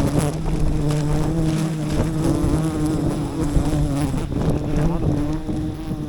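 A swarm of wild honeybees buzzing steadily around a hive as a loud, continuous drone.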